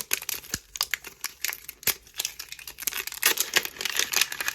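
Plastic packaging being crinkled and torn open by hand: irregular crackling with sharp clicks, getting busier near the end.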